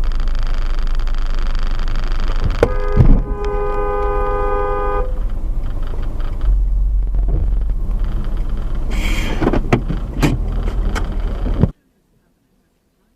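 Steady road and car engine noise, with a loud knock about three seconds in. A two-tone car horn sounds for nearly two seconds straight after it. A few sharp clicks follow later, and the sound cuts off abruptly near the end.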